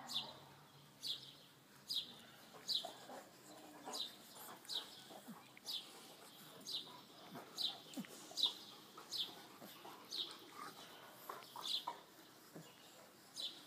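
A bird repeating a short, high, falling chirp about every three-quarters of a second.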